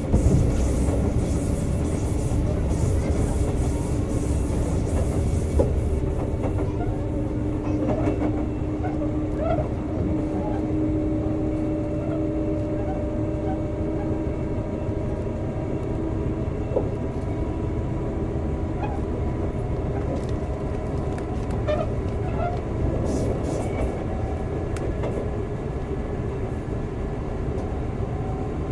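Sotetsu 9000 series electric train running, heard from inside the car: a steady rumble of wheels on rail with a steady motor hum, and a few separate clicks from the track.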